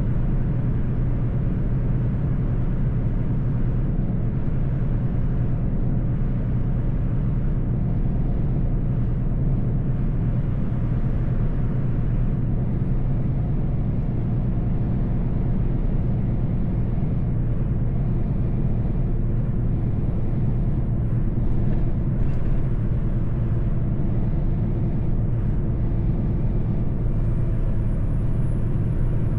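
Mercedes-Benz truck driving at a steady speed: a constant low engine hum mixed with road noise, with no change in pitch or level.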